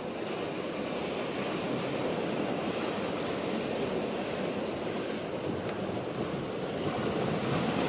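Sea surf washing on the shore, a steady rushing, with some wind buffeting the microphone.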